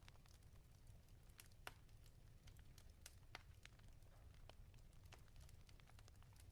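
Wood fire crackling in a fireplace, faint: irregular sharp pops and snaps over a low steady rumble, with the loudest snaps a little under two seconds in and again a little over three seconds in.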